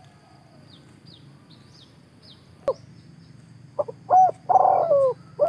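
A bird calling: a few loud, short calls that rise and fall in pitch, starting a little before four seconds in. Faint, short high chirps repeat throughout.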